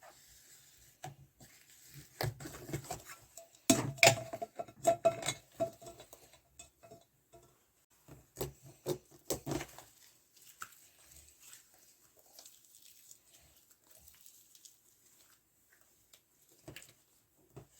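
Slime being squeezed and poked by hand, making irregular sticky clicks and pops. They come in two busy stretches in the first half, then thin out to scattered soft ticks.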